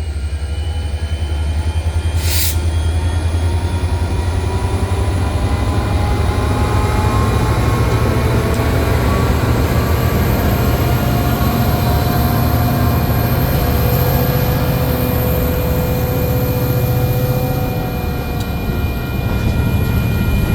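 Freight train rolling past: a steady low rumble of the cars, with many thin ringing, squealing tones from the steel wheels on the rail that slowly rise and fall. There is one short sharp click about two seconds in.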